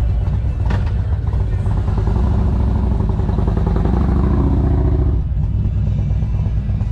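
Motorcycle engine running loud, its pitch rising as it accelerates, then easing off about five seconds in.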